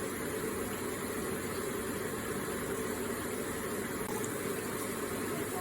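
Electric water feature running: a steady, gentle flow of water.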